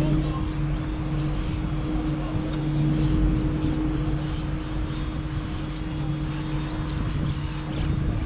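A steady, low motor drone with a constant hum.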